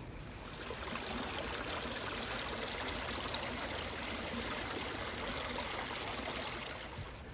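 Small woodland brook flowing: a steady rush and trickle of water.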